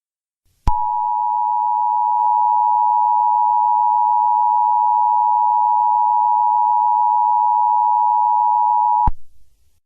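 Emergency Alert System attention signal: the two-tone alert of 853 and 960 Hz sounded together, held steady for about eight seconds. It starts just under a second in and cuts off sharply, and it signals that an emergency message is about to follow.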